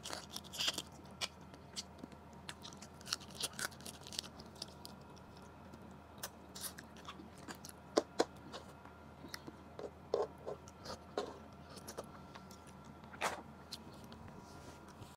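Close-miked chewing of food eaten by hand, with scattered small clicks and taps throughout.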